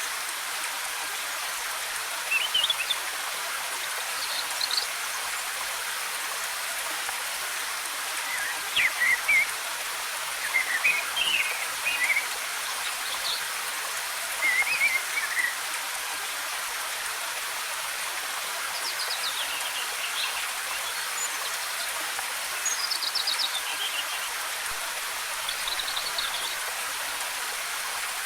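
Steady rush of cascading waterfall water, with forest birds chirping and giving short trills every few seconds over it.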